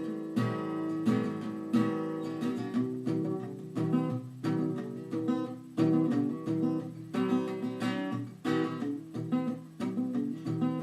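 Acoustic guitar strummed in a steady rhythm: an instrumental passage between sung sections.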